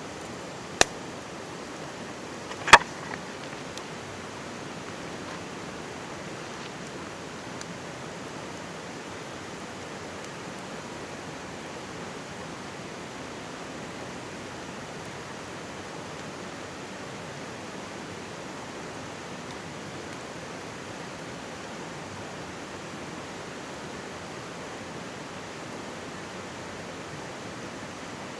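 Mountain stream babbling steadily under a crackling wood campfire, with two sharp pops from the fire near the start, the second and louder about three seconds in, and a few faint ticks after it.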